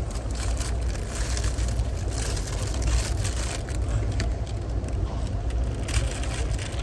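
Passenger train running along, heard from inside the car: a steady low rumble with light rattles and clicks.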